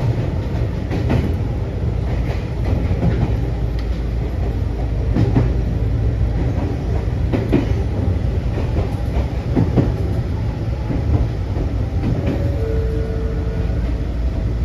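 Ohmi Railway Taga Line train running on the rails: a steady low rumble with scattered clicks of the wheels over rail joints.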